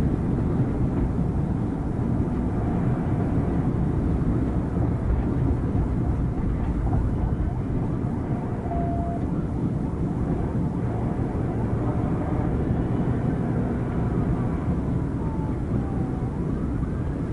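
Police patrol car running flat out at around 112 mph: a steady low rumble of engine, tyre and wind noise that holds even throughout.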